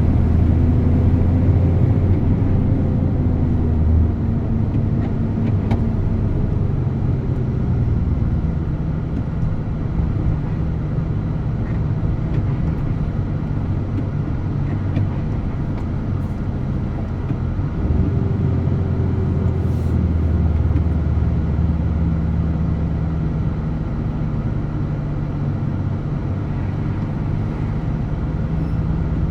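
DAF truck's diesel engine running steadily while driving. The low engine note eases off about four seconds in and builds again about eighteen seconds in.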